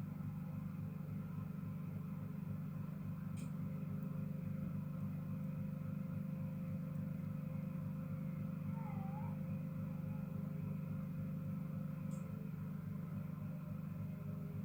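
Steady low hum with two faint ticks, one about three seconds in and one about twelve seconds in, and a brief faint wavering squeak about nine seconds in.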